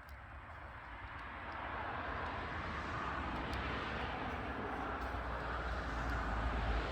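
A passing vehicle, a broad rushing noise with a low rumble that swells over a few seconds, peaks near the end and starts to fade. Faint crackles of burning firewood are heard over it.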